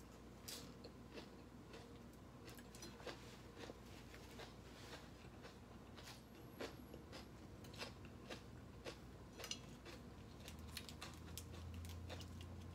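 Faint close-up chewing of a mouthful of crunchy green papaya salad: a run of soft crunches and wet mouth clicks.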